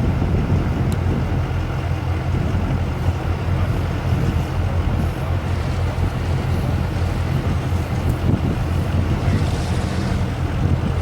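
Mega truck's engine running at steady revs, a deep even rumble with some wind noise on the microphone.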